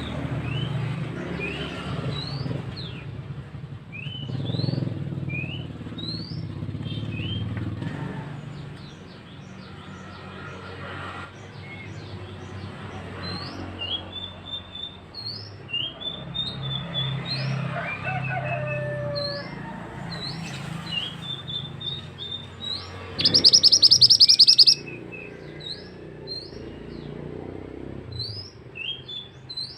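Mantenan bird singing: a long series of short, high, rising chirps, over a steady low rush of flowing water. About 23 seconds in, a loud, harsh buzzing trill lasts about a second and a half.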